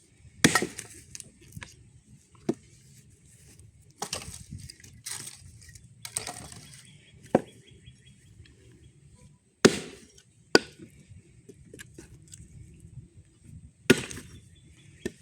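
Swiss Tech hatchet-style axe chopping and splitting firewood: about eight sharp strikes at uneven intervals, some followed by a brief crackle of wood giving way.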